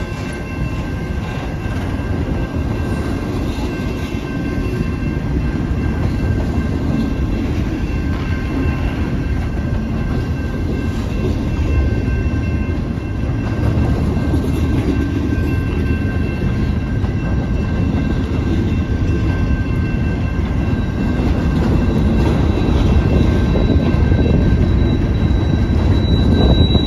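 Freight train of container cars rolling past at close range: a steady rumble of wheels on rail, with a faint steady high whine over it, growing a little louder near the end.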